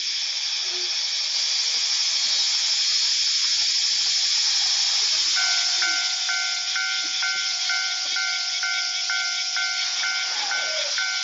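A steady high hiss throughout. About five seconds in, a Japanese railroad crossing's electronic warning bell starts, ringing its repeating two-tone alarm about twice a second: the crossing has been triggered by an approaching train.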